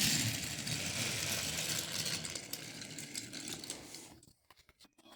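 Toy train running, a steady mechanical rattle and hum that fades out about four seconds in.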